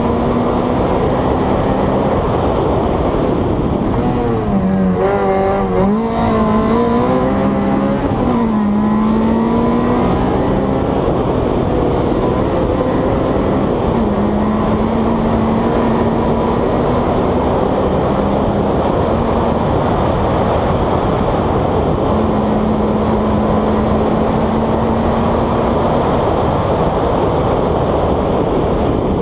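Honda Civic hillclimb race car's VTEC four-cylinder engine running hard at high revs, heard onboard. Its note dips and climbs several times about 4 to 10 seconds in, then holds high and steady.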